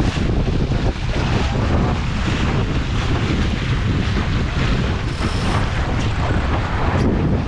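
Wind buffeting the microphone over the rush of water along the hull of an E Scow sailboat under way, a steady loud noise.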